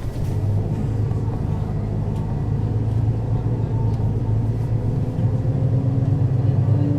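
Mercedes-Benz O 530 Citaro city bus's diesel engine running steadily under load, with a whine rising slowly in pitch as the bus gathers speed.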